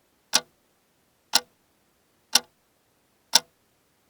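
Clock ticking: four sharp, even ticks, one a second.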